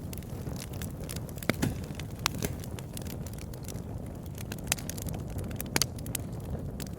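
Campfire burning, with a steady low rumble of flames and irregular sharp crackles and pops of burning wood. The loudest pops come about one and a half, two and a quarter, four and three-quarter and almost six seconds in.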